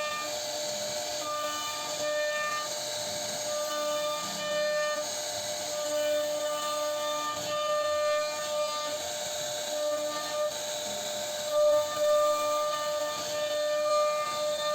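CNC router spindle whining at a steady high pitch over a hiss of cutting. The whine swells and fades every second or two as the bit moves through the wood.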